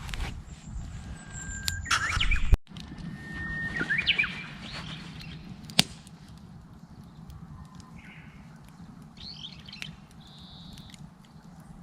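Japanese bush warbler singing its 'hoh-hokekyo' song twice, each a long held whistle that breaks into a quick rising warble, with shorter bird calls later on. Sharp crackling pops from the wood campfire, and a loud low rumble in the first couple of seconds that cuts off suddenly.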